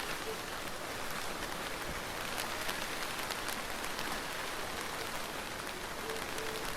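Steady rain falling, with many individual drops ticking sharply over the constant hiss.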